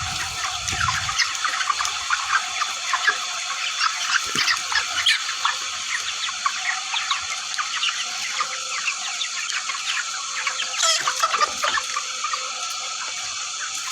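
A large flock of chickens clucking and calling all at once, a continuous dense chatter of many overlapping short calls, with a few louder calls near the end.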